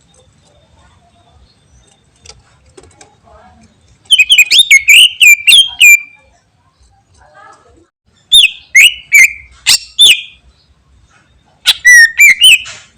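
Cucak ijo (green leafbird) singing in three loud bursts of rapid, sweeping whistled notes: the first about four seconds in, the next about eight seconds in, the last near the end, with short quiet pauses between.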